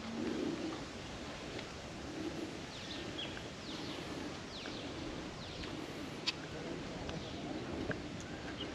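Birds calling outdoors, with a run of short, falling, high-pitched notes near the middle, over a steady background of open-air noise.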